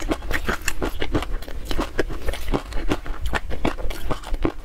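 Close-miked chewing of a mouthful of chunky peanut sauce, heard as quick, irregular wet mouth clicks and smacks, several a second.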